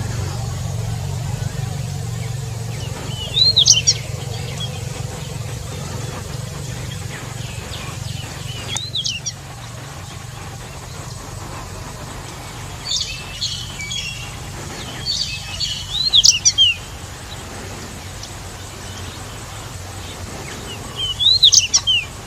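Pied bushchat (decu wulung) singing: about five short phrases of quick, rising and falling whistled notes, a few seconds apart, over a steady low rumble.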